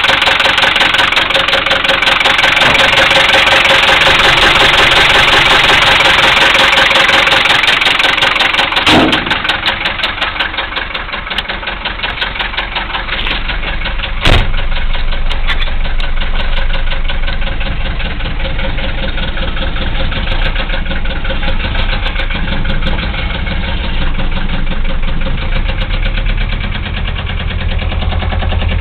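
1974 Mercedes diesel engine running with a heavy rod knock, the knock of a worn connecting-rod bearing. It runs loud for the first nine seconds or so, then settles to a quieter, steady idle, with one sharp click about fourteen seconds in.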